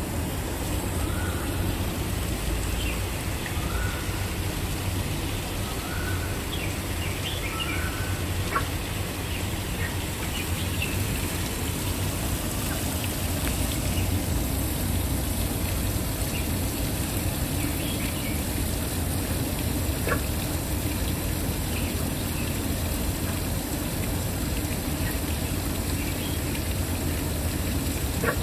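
Waterfall rushing steadily, with a bird calling over it: a short rising note repeated four times about two seconds apart near the start, and a few fainter, higher calls later.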